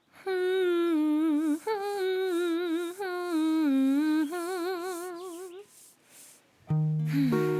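A high voice humming a wavering tune with a lot of vibrato for about five seconds. Near the end, after a short pause, plucked acoustic guitar notes begin.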